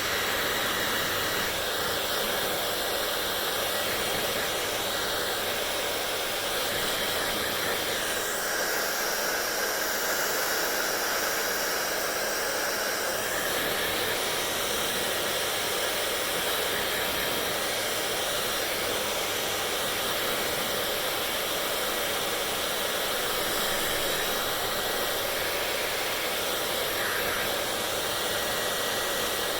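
Hand-held hair dryer running steadily, its blowing air making an even rushing hiss; the tone of the hiss shifts for several seconds about a third of the way through.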